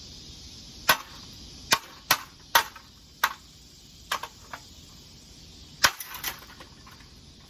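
Golf club striking a ceiling fan over and over: about nine sharp, hard hits at irregular intervals, some coming in quick pairs.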